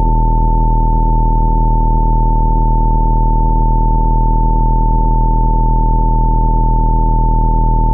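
A steady electronic test tone just under 1 kHz, held at one pitch without a break, over a low steady hum.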